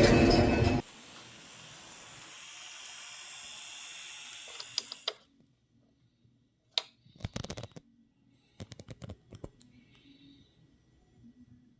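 A loud rumbling sound cuts off abruptly under a second in. After a faint hiss come scattered groups of small, sharp mechanical clicks and taps.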